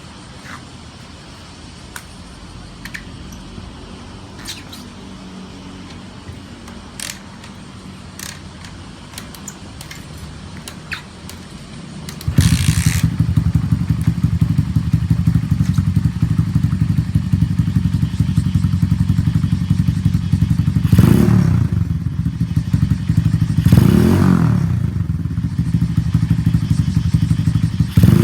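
Single-cylinder four-stroke engine of a 125cc Monkey-replica kit bike with a stainless Minimoto power-up exhaust, which is very loud. Only a low hum and scattered clicks for the first dozen seconds, then the engine comes in suddenly and runs loudly, revved up and back down twice in the second half.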